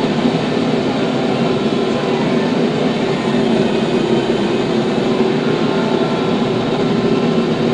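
TYM T574 tractor's diesel engine running steadily, with an even, unbroken mechanical drone.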